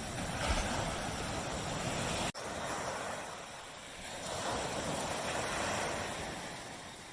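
Tropical beach surf: small waves wash in and draw back, with the sound swelling twice, a few seconds apart. The sound cuts out for a split second a little over two seconds in.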